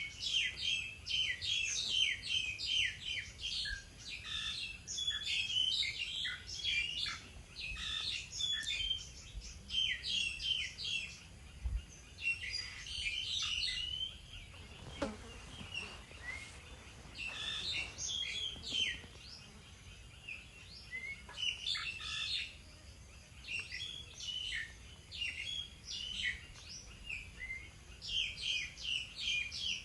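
Birds chirping in rapid bouts of short, high chirps, with brief pauses between the bouts.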